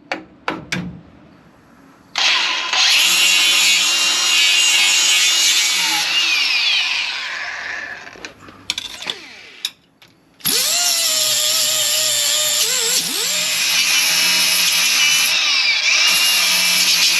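Electric angle grinder working on the steel frame in two runs of several seconds each, its motor pitch sagging as the wheel bites into the metal. A few sharp knocks come at the start and in the pause between the runs.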